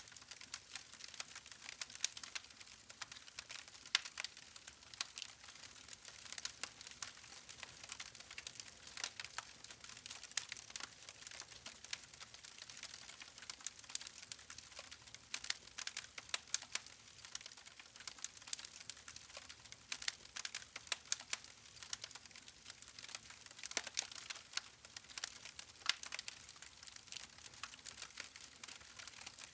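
Wood campfire crackling: many irregular sharp snaps and pops from the burning logs over a soft, steady hiss of the flames.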